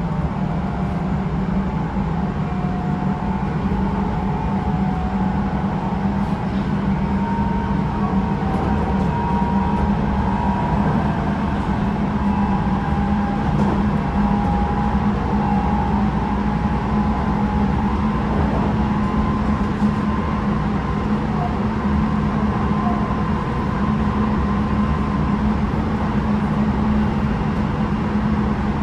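Running noise inside the motor car of a Tobu 9050 series electric train with Toyo GTO-VVVF traction equipment, moving steadily along the line: a continuous low rumble with a steady hum and faint wavering tones above it. The car's air conditioning is running throughout.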